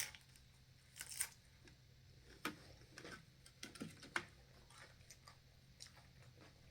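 Faint, irregular clicks and crunches of someone eating nachos, about a dozen over a few seconds, over a low steady hum.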